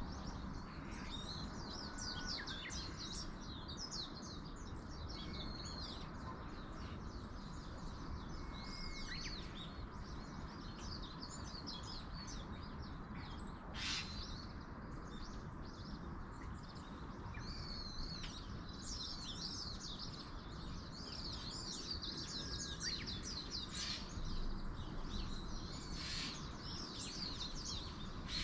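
Small birds chirping and twittering throughout, with a few short whistled notes, over a steady rushing background noise. One sharper, louder sound stands out about halfway through.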